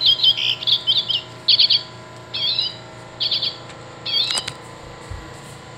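Recorded common redpoll calls played from a Wild Republic Audubon plush bird's sound box: short high chirps and twitters in quick groups, about one group a second.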